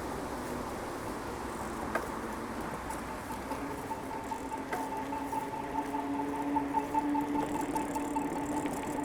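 Bicycle riding along a paved path: steady rolling noise from the tyres with a couple of sharp clicks and rattles. A steady hum joins in from about three and a half seconds in.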